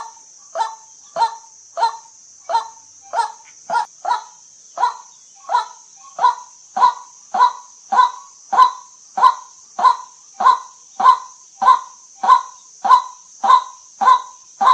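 White-breasted waterhen calling: one short note repeated evenly, about three notes every two seconds, growing a little louder as it goes, over a steady high hiss.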